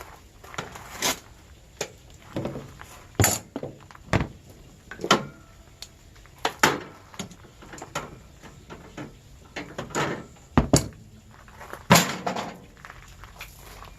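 Irregular metal knocks and clanks, roughly one a second, as scrap air conditioner units and their parts are handled and moved. The hardest knocks fall about three, ten and twelve seconds in.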